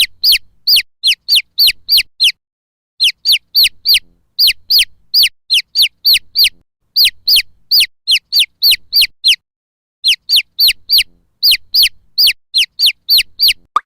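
Baby chick peeping: a rapid string of high cheeps that each slide downward in pitch, about three a second, in runs broken by short pauses.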